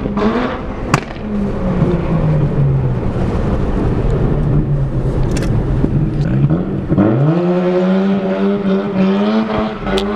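Honda Accord engine running through a homemade single-pipe exhaust that leaks at its unwelded joints, the car under way. Its pitch sinks slowly, then climbs steeply about seven seconds in as it accelerates and holds high, with a few sharp clicks along the way.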